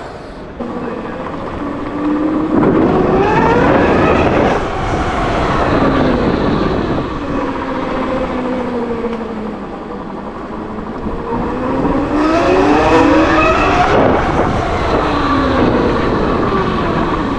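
Electric motorcycle's motor whine rising in pitch as it speeds up and falling as it slows, twice, over a steady rush of tyre and wind noise.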